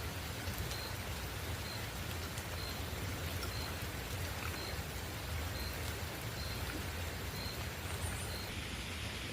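Steady rain falling, with scattered ticks of drops striking a surface. A short high-pitched chirp repeats about once a second and stops near the end.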